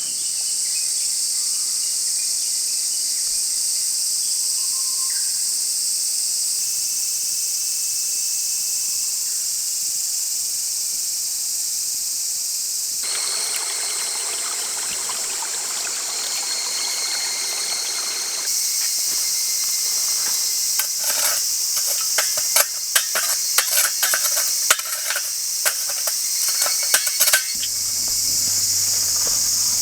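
Steady high-pitched buzz of a summer insect chorus in forest. In the second half, rustling joins in, then many sharp clicks and crackles.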